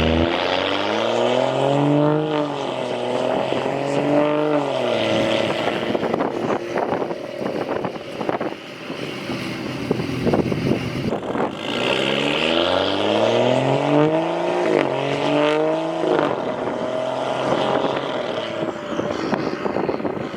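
BMW M235i's turbocharged straight-six, straight-piped from the turbo back with no muffler or resonator, accelerating hard twice. Each time the pitch climbs, dips at an upshift, climbs again and cuts off. Between the two pulls comes a run of sharp pops and crackles.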